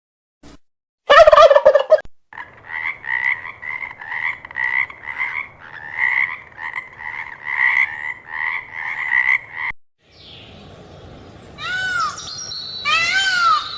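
Domestic fowl calling: a short loud burst, then about seven seconds of rapid, repeated calls. Near the end a cat meows twice.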